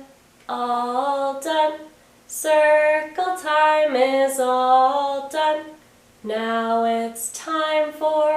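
A woman singing alone without accompaniment, in three short phrases of held notes with brief pauses between them, like a children's closing song.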